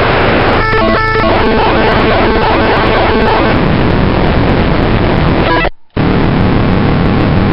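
Keyboard notes played through a Degrader Shifter noise pedal, which squares the sound, divides it into octaves and degrades it into a loud, harsh, noisy wash with pitched notes showing through. It cuts out briefly about six seconds in, then resumes.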